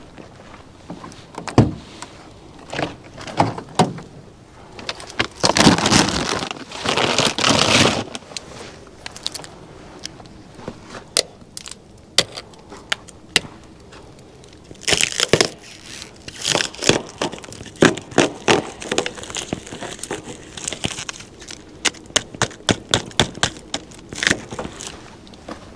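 Objects being handled: irregular sharp clicks and clatter, with two longer bursts of rustling about five to eight seconds in and another around fifteen seconds, then quick runs of clicks toward the end.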